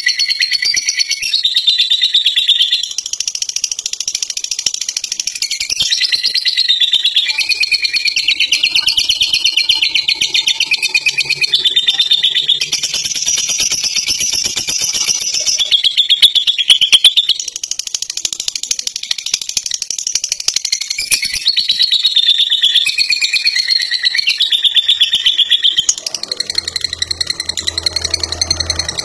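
Lovebird singing a long, unbroken 'ngekek': rapid high-pitched chattering that runs on without a pause, shifting pitch every second or two.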